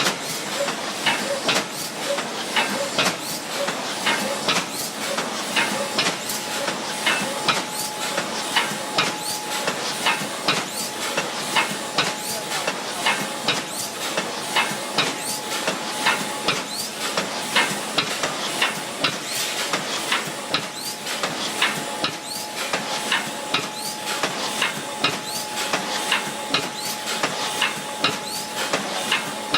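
Thermoforming machine with stacking station running: a steady hiss with regular sharp clacks throughout, and a faint steady tone joining about six seconds in.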